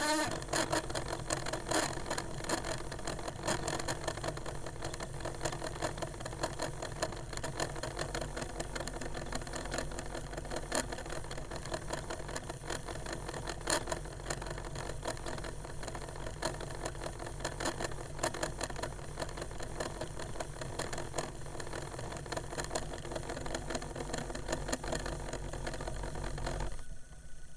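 Old 1980s-era Discman portable CD player whirring and rattling, with irregular clicks, as its motor keeps trying to spin the disc up to speed and cannot, too weak for lack of power. It stops abruptly near the end.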